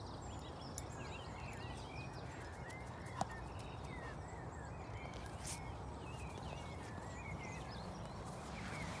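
Small birds chirping and twittering throughout, over a steady low background rumble, with a few sharp clicks.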